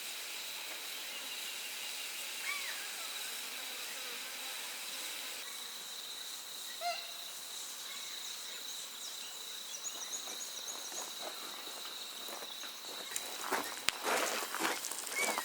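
Steady high-pitched insect drone over a soft hiss, with a few short bird chirps and a brief trill. Near the end come several knocks and clicks.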